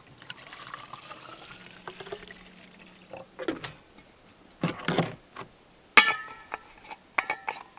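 Water poured into a container, its pitch rising as it fills, followed by a few knocks and a sharp clank about six seconds in that rings briefly.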